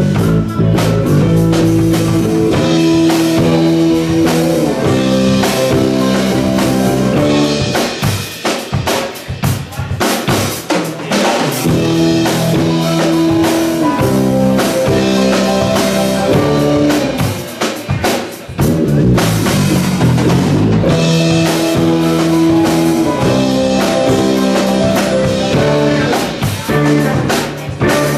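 Live rock band playing an instrumental passage on a drum kit, bass and sustained chords, with no singing. Twice, about eight and eighteen seconds in, the chords drop out and the drums carry on nearly alone for a few seconds.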